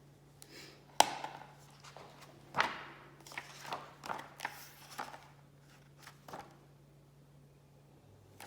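A picture book being handled and its pages turned: a series of taps and short papery rustles, the sharpest about a second in, over a low steady hum.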